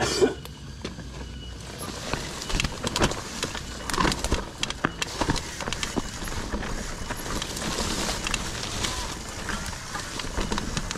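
Mountain bike rolling over a rough trail: frequent rattles and knocks from the bike, with wind noise on the microphone building from about two seconds in. Insects trill steadily at the start.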